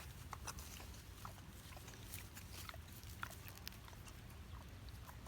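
Goats close by making faint, scattered clicks and short soft animal sounds over a low steady rumble.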